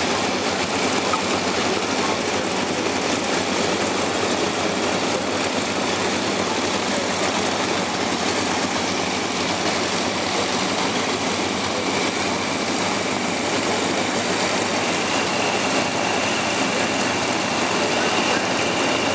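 A propeller aircraft engine running steadily.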